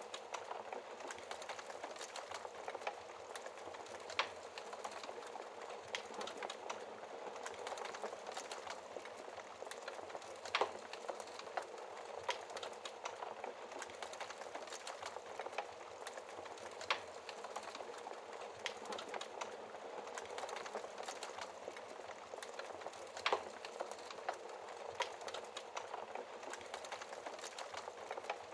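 Wood fire burning in a fireplace: a steady crackle with scattered sharp pops, a few of them louder than the rest.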